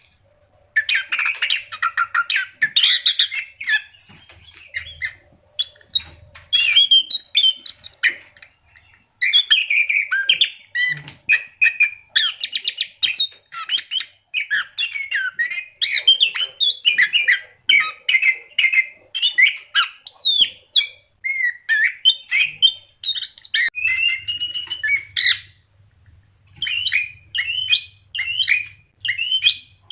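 Orange-headed thrush in full, continuous song: a long run of quick, varied warbling and chirping phrases with only brief pauses.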